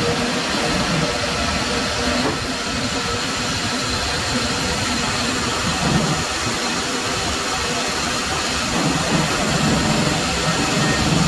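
Machinery running steadily, a loud even noise over an uneven low rumble.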